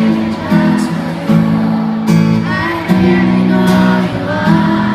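Live pop-rock band playing a ballad, led by strummed guitar over sustained chords, with a little singing.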